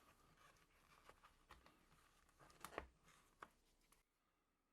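Near silence, with a few faint clicks and rustles of hands handling a watch and its packaging, the most noticeable pair a little past halfway.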